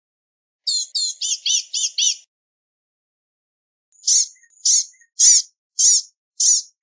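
Blue-gray gnatcatcher calling: a quick run of about eight thin, high chips in just over a second, then after a pause a slower, evenly paced series of high notes a little under two a second.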